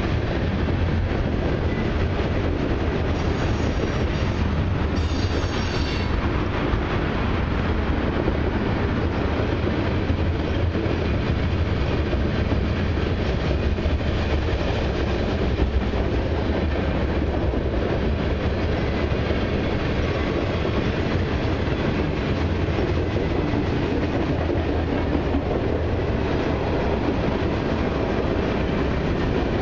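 Freight cars of a long mixed train, tank cars and covered hoppers, rolling past on steel wheels: a steady, loud rumble of wheels on rail, with two brief high-pitched sounds about three and five seconds in.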